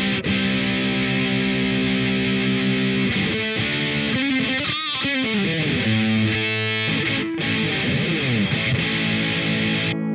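Distorted electric guitar played through a Boss DS-1 distortion pedal into a Peace Hill FX TR tube preamp: sustained chords and held notes. About halfway through, one note is bent and wavers with vibrato, followed by sliding notes.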